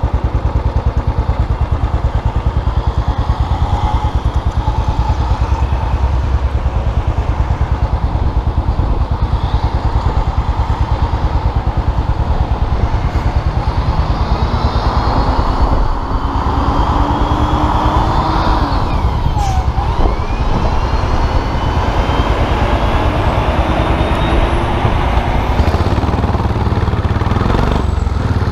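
Custom motorcycle engine running steadily on the road, its low exhaust pulse continuous. Around two-thirds of the way through, sliding tones rise and fall briefly.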